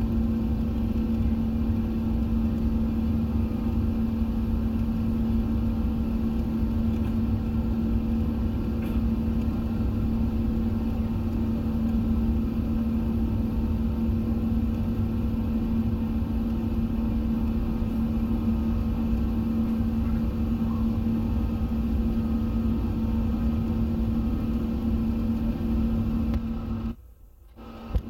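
Steady cabin noise of an Airbus A380 in flight after takeoff: an even rumble of engines and airflow with a constant low hum, cut off suddenly near the end.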